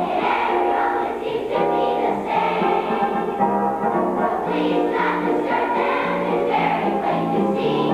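A choir singing a song, held notes moving from pitch to pitch without a break.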